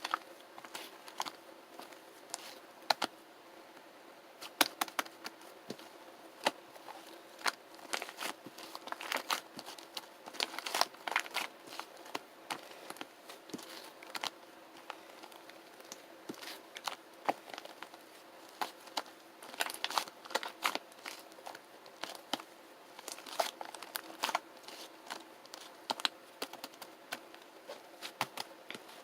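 Clear slime mixed with shaving foam being squished and pulled by hand, giving irregular sticky clicks and crackles, several a second, coming in clusters.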